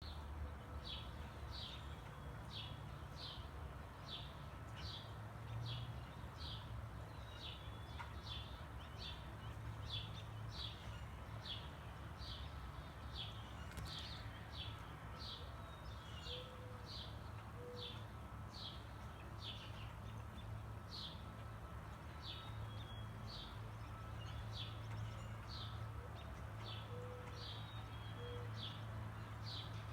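A bird repeating a short, high, downward-sliding call about twice a second, over and over, with a steady low rumble underneath.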